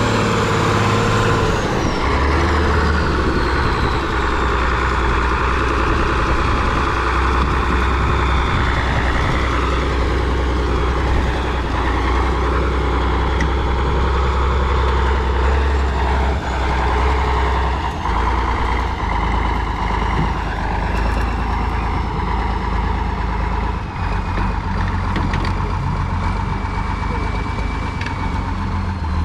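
Heavy off-road trial truck's diesel engine running under load, with a steady low drone. About two seconds in the revs drop and a high whine falls in pitch.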